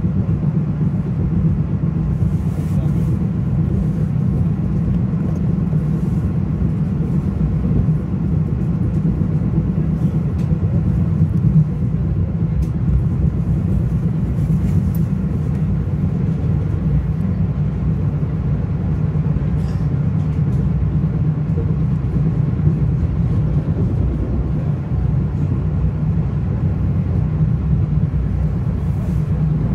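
Steady low rumble of a Metro-North commuter train running at speed, heard from inside the passenger car, with a few faint clicks and rattles.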